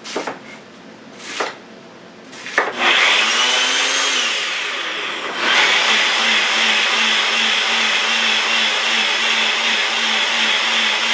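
Electric blender pureeing onions, bell peppers, cilantro and garlic with olive oil into sofrito. A few knocks come first. The motor starts about three seconds in, eases off briefly, then picks up again and runs steadily.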